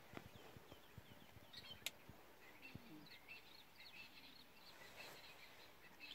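Faint outdoor quiet with a bird chirping in a rapid run of short, high notes from about a second and a half in. A few soft taps and one sharp click come about two seconds in.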